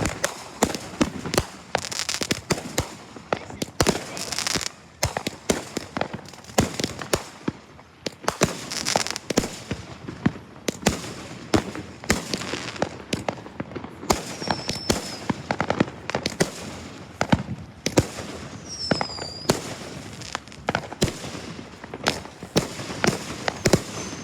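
Fireworks going off in rapid succession: a dense run of sharp bangs and crackles, with a couple of short whistles in the second half.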